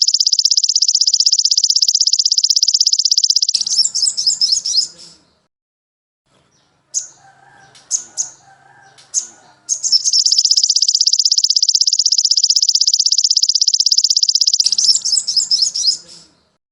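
Recorded songbird song played as a tutor track: a long, very rapid, high-pitched trill lasting about three and a half seconds that breaks into a jumble of twittering notes, then a pause with a few sharp chirps, then the same trill and twitter again.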